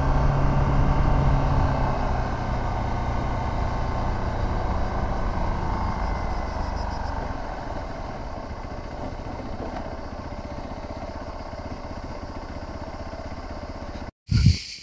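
Motorcycle engine running at low revs under road and wind noise. A steady engine note for the first couple of seconds gives way to a fainter, rougher sound that keeps getting quieter, then cuts off suddenly near the end.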